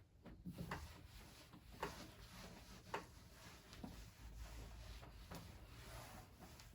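Faint light clicks and small knocks, about one a second over the first four seconds, against quiet room tone.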